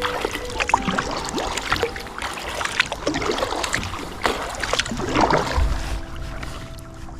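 Kayak paddle strokes: the blades dip and pull through the water in a continuous run of splashes and drips.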